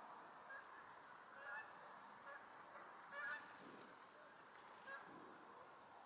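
Faint, short bird calls, repeated a few times with gaps between them; the one a little past the middle is the loudest.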